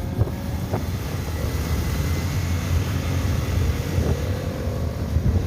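Motorcycle running along on the road with a steady low rumble and wind buffeting the microphone; a faint engine tone rises slowly as it gathers speed.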